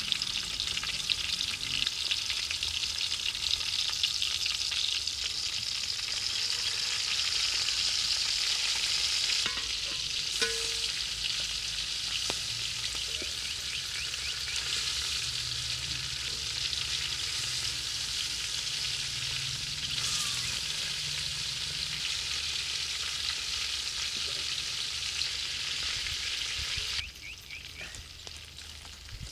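Food sizzling and crackling as it fries in hot oil in a pan while being stirred, part of cooking a Kerala chicken roast. The sizzle drops off sharply near the end.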